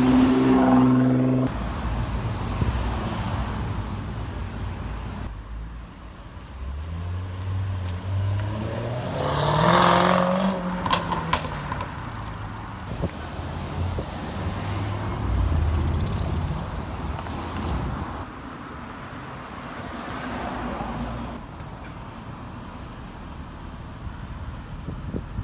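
Car engines passing on a street, revving and accelerating. A loud rev comes right at the start, and about ten seconds in one car's engine note rises to a loud peak as it goes by and then fades, with more cars passing later.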